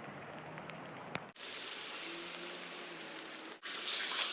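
Rain pattering steadily, with scattered small drip ticks, heard as three short clips cut together. A faint low hum sits under the middle clip.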